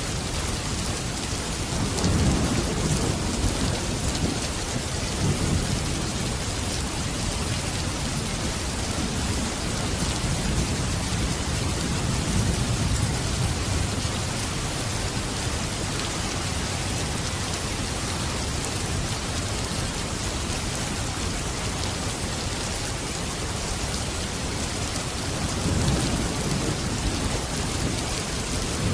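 Steady rain falling, with low rolls of thunder swelling and fading several times, the loudest about two seconds in and again near the end.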